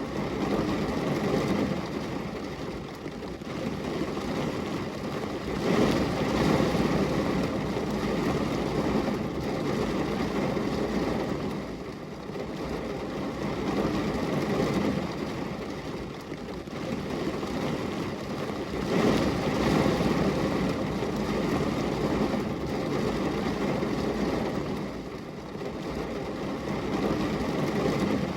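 Steady rain on a window pane, a dense low rushing noise that swells and eases every several seconds.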